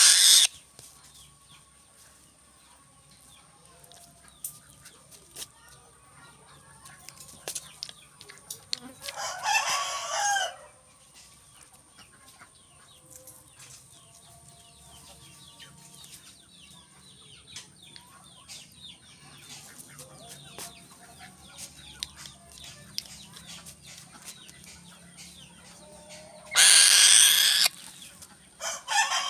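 Two loud bird calls of about a second and a half each, one about ten seconds in and one near the end, over faint scattered clicking.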